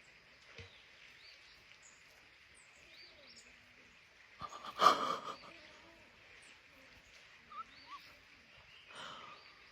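Outdoor ambience with a steady high hiss and short bird chirps scattered throughout. About five seconds in comes one louder, noisy sound lasting about a second, with a weaker one near the end.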